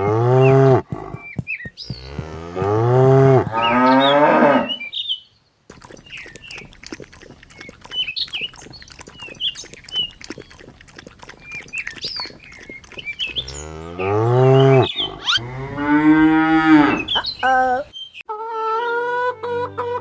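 Cows mooing: several long, drawn-out moos in two groups, early and again past the middle, with quieter clicking and short chirps between them.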